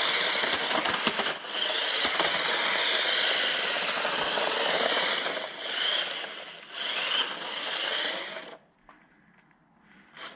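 JJRC Q123 1/16 scale RC drift truck's brushed 370 electric motor whining under throttle along with the truck's running noise, the pitch rising and falling. After about five seconds it runs in a few short surges, then stops abruptly, leaving near silence at the end.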